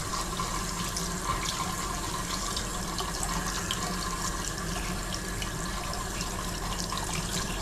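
Hot-water faucet running steadily, with small scattered splashes in the stream, as water is drawn through from a newly installed gas water heater until it runs hot.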